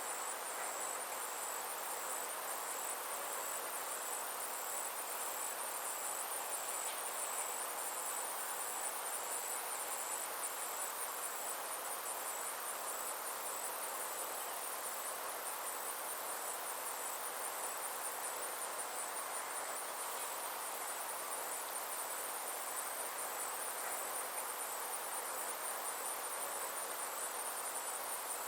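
Crickets trilling steadily in a high, rapidly pulsing chorus over a soft, even rushing background.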